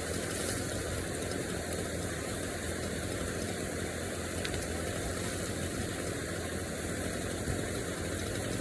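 An engine idling steadily, with an even low hum that neither revs nor changes.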